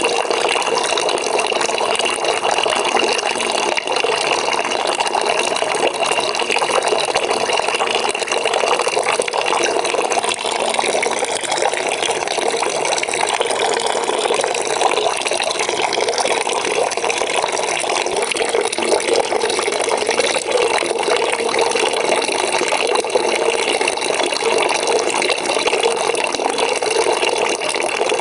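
Water from a tap running steadily into a bucket as it fills, a constant splashing gush.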